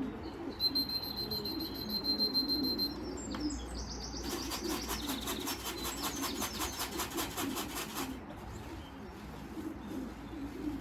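Racing pigeons cooing continuously at the loft. Over the cooing there is a thin, steady high tone for about two seconds near the start, then a rapid high pulsed chirping of about six pulses a second for about four seconds in the middle.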